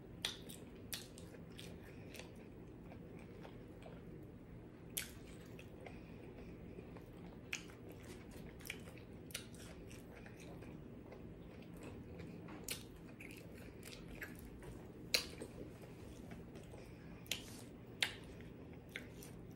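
Close-miked eating sounds: chewing and biting fried okra, with irregular sharp crunches and mouth clicks spaced a second or more apart. The loudest crunches fall about 15 and 18 seconds in.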